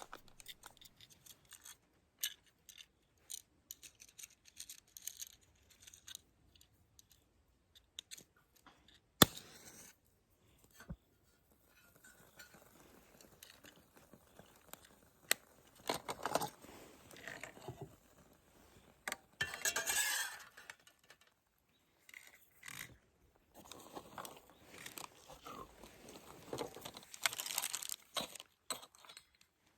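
Outdoor gear being handled: scattered rustling, scraping and light clinks, with two sharp clicks and a few short rustling bursts.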